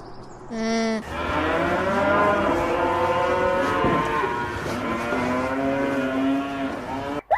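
Cattle mooing: a short moo about half a second in, then long drawn-out lowing with overlapping calls at different pitches, cut off suddenly near the end.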